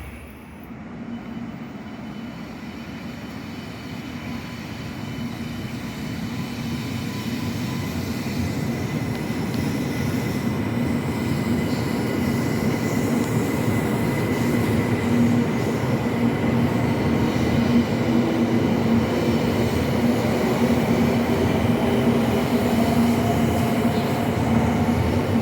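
Sanyo Shinkansen train running noise growing steadily louder, with a steady hum and a faint whine that rises in pitch in the second half.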